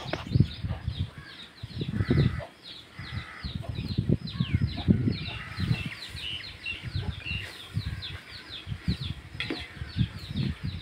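Birds chirping continuously, a quick run of short falling chirps several times a second, over an uneven low rumble.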